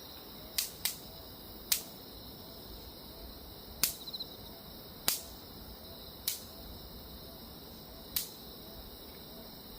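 Electric mosquito zapper snapping as insects hit its grid: seven sharp cracks at uneven intervals, one followed by a brief crackle about four seconds in, over a steady high-pitched hum.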